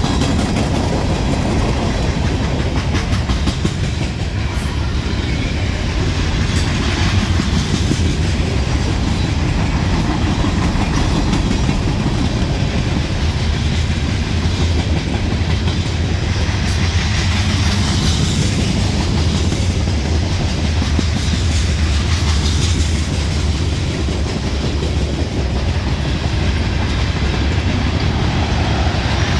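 Freight train cars rolling past in a steady loud rumble, with the clickety-clack of steel wheels over rail joints.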